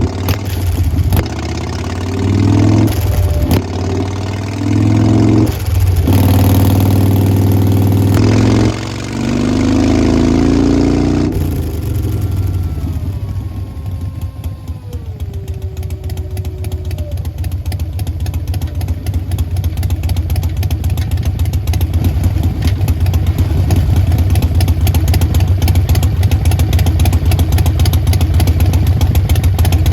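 Harley-Davidson Sportster Forty-Eight's 1200 cc V-twin through Vance & Hines Short Shots exhaust, blipped several times in the first ten seconds or so. The revs then fall away slowly and it settles into a steady, loud idle.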